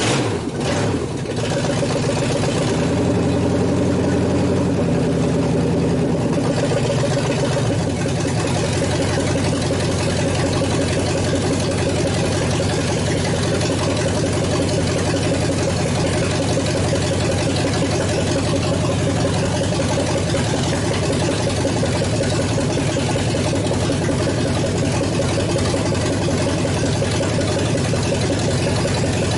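Chevrolet S10 pickup's engine catching just after being cranked, running faster for the first several seconds, then settling into a steady idle about eight seconds in. It keeps idling on its own after having died on the previous attempt.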